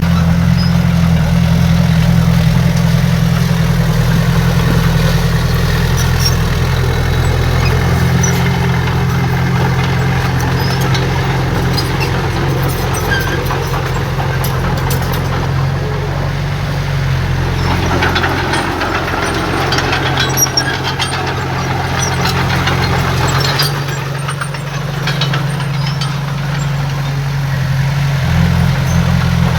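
Heavy diesel engine of earthmoving machinery running steadily at a low, even pitch, with a rougher, noisier stretch about two-thirds of the way through.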